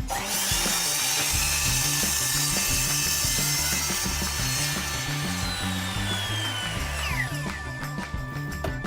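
Power saw cutting, a loud steady high-pitched noise that begins abruptly; about seven seconds in, the motor's whine falls away as the blade spins down.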